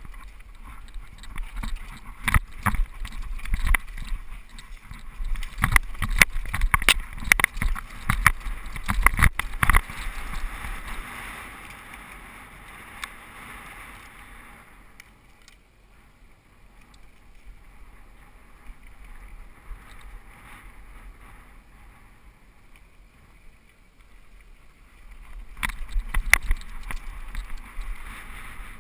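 Mountain bike rattling and knocking over a rough dirt downhill trail, with a steady hiss of tyres and wind. It is dense with knocks through the first third, quieter in the middle, and rattles again near the end.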